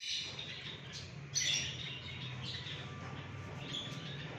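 Alexandrine parakeet giving a few short chirping calls, the loudest about one and a half seconds in, over a steady low hum.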